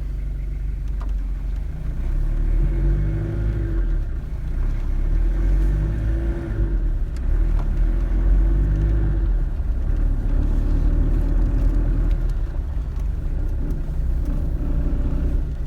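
Toyota Hilux engine running at low revs on a cold start with the drivetrain in low range through the G52 gearbox and RF1A transfer case. The rumble rises about two seconds in and stays steady after that.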